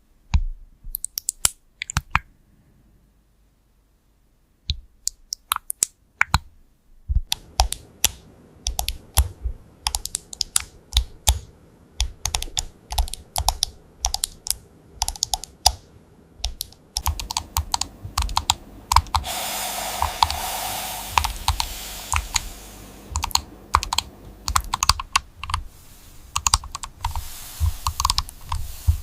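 Typing on a computer keyboard: a few scattered keystrokes with short pauses, then steady, fast typing from about seven seconds in. A steady hiss joins under the keystrokes past the halfway point.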